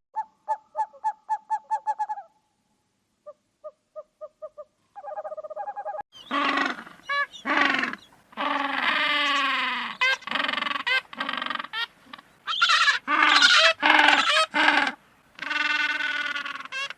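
A run of different animal calls: first a quick series of short, evenly spaced hooting notes, then a few faint short notes, then from about six seconds in longer, loud calls that bend in pitch, coming in repeated bouts.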